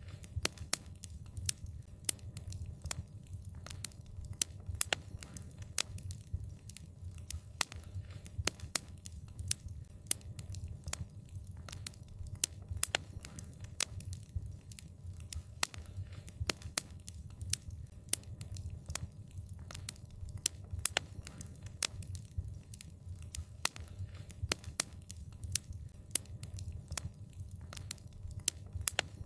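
Wood fire crackling: a steady low rumble of burning with many sharp, irregular pops and snaps, several a second.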